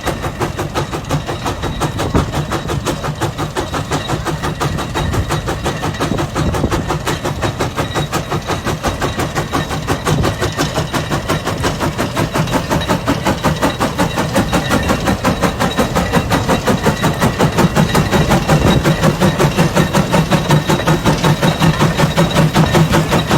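Steam traction engine's exhaust chuffing in a fast, even rhythm of about four beats a second while it pulls a gang plow under load. The beat grows louder in the second half.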